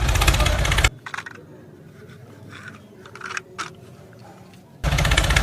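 A small DC motor runs with a loud, dense buzz, stops abruptly about a second in, and starts again abruptly near the end. In the quiet gap there are a few light clicks and scrapes.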